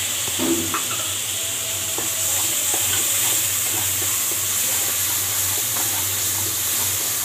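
Onion and spice masala sizzling in hot oil in a kadai, with a steady hiss, while a wooden spatula stirs it and scrapes the pan in small ticks.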